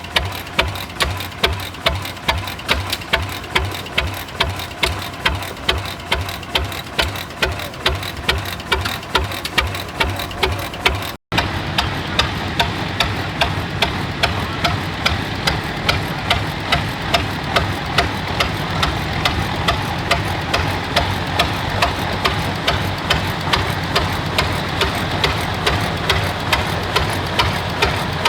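Old engines running with a steady, regular exhaust beat of about three sharp pops a second. About eleven seconds in, a sudden cut switches to an engine with a quicker, less distinct beat.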